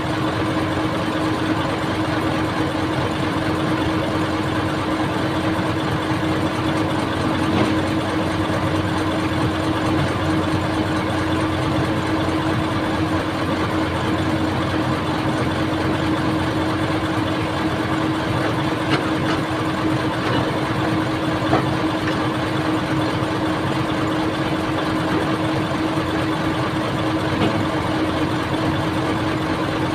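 Old excavator's diesel engine running steadily, with an occasional brief click.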